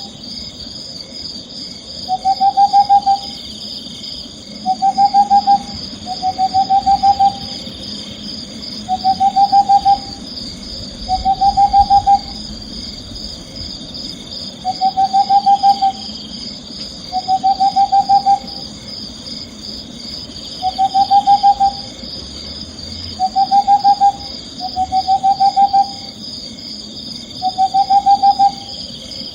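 An owl giving a short trilled hoot over and over, about every two seconds, each call a quick run of pulses lasting about a second. Underneath runs a steady high chirring of night insects.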